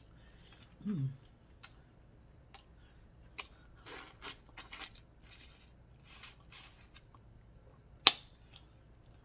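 Shellfish shells being cracked and picked apart by hand: scattered clicks and crackles with a few short rustling stretches, and one sharp snap about eight seconds in.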